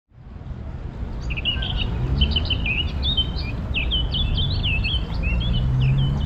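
A small bird singing a quick run of short, high chirping and warbling notes, over a steady low rumble.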